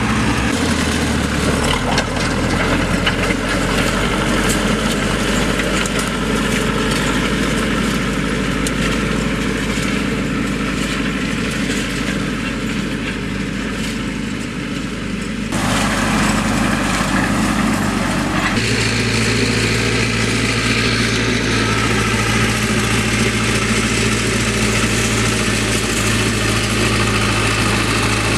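Zetor 6211 tractor's diesel engine running steadily near idle, its pitch shifting a few times as the engine speed changes. Past the middle there is a harsher layer of noise for about three seconds.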